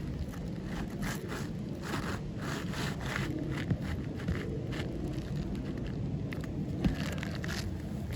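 Asphalt roof shingles scraping and rustling as an old three-tab shingle is worked back into place, in irregular short strokes with a few sharper knocks.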